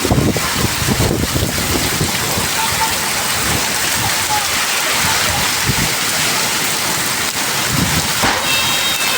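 Heavy rain pouring steadily, a dense, even hiss of rain on surfaces.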